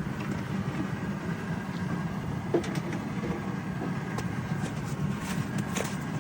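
A steady low rumble, with scattered light clicks and knocks over it, the sharpest a little before the middle and a cluster more near the end.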